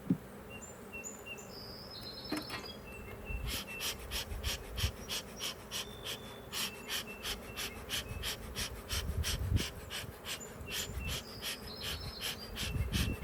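Agitated honeybees buzzing around an open hive, a steady low hum. Birds chirp over it, and from about three seconds in to near the end a fast rhythmic hissing pulse repeats about three times a second.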